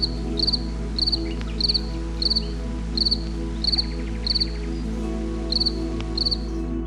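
Insect chirping: a high chirp repeated roughly every half-second, each a quick run of three or four pulses, with a short pause about two-thirds of the way through. Under it runs a steady low hum.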